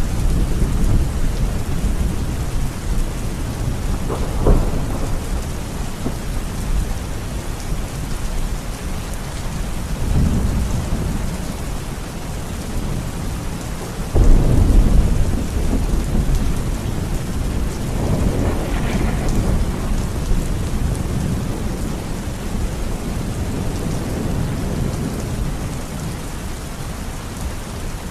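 Steady rain with rolls of thunder rumbling through it. There is a rumble at the start, a sharper peal about four seconds in, and a sudden louder clap about fourteen seconds in that slowly dies away.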